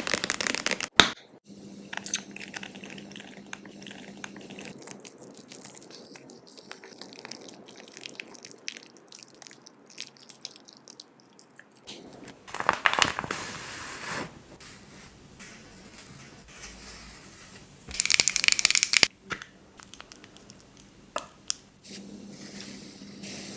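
Crackling and crinkling of a cosmetic face mask being handled, with three louder crunchy bursts: at the start, a little past the middle, and later on.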